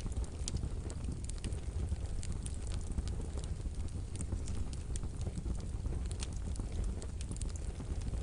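Wood fire in a wood-burning stove crackling: irregular sharp crackles and pops over a steady low rumble of the flames.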